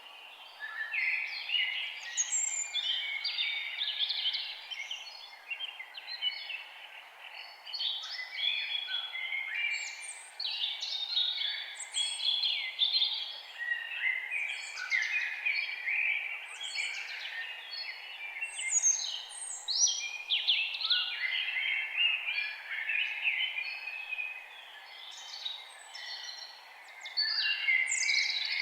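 Several birds singing at once in a dense forest chorus: overlapping chirps, trills and quick downward-sweeping whistles, with louder flurries about a third of the way in, around two thirds of the way in, and near the end, over a steady faint background hiss.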